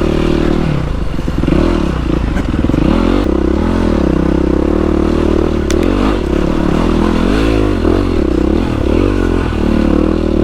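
Yamaha WR450F single-cylinder four-stroke dirt bike engine working off-road. Its revs rise and fall over and over as the throttle is opened and closed.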